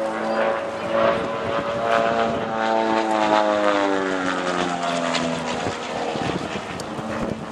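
Van's RV-8 propeller aircraft flying past, its engine and propeller drone steady at first, then dropping in pitch between about three and five seconds in as it passes.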